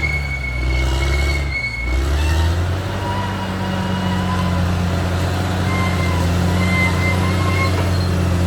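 Caterpillar D6R XL bulldozer's diesel engine running under load, its note dipping briefly and picking back up about two seconds in. High metallic squeals come from the steel tracks near the start and again later.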